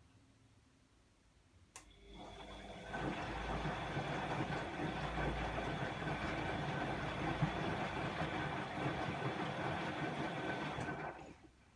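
Bosch WAE24162GB washing machine's motor turning the drum during a rinse cycle: a click, then the sound builds over about a second, runs steadily with a faint whine for about eight seconds, and stops near the end.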